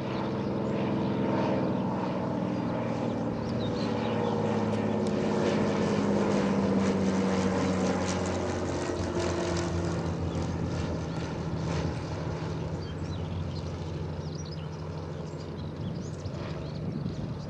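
Propeller aircraft passing overhead: a droning engine note that falls in pitch as it goes by, loudest about halfway through, then slowly fading.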